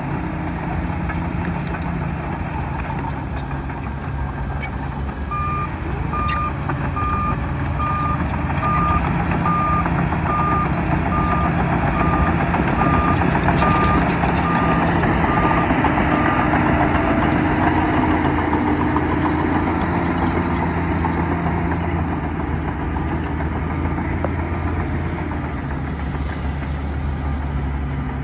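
Bulldozer's diesel engine running steadily, with a reversing alarm beeping at an even pace, a little more than once a second, for about ten seconds as the machine backs up. The engine grows louder partway through, as if working harder.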